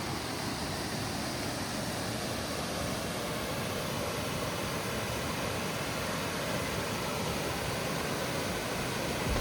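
Steady, even rushing of falling water with no break or change.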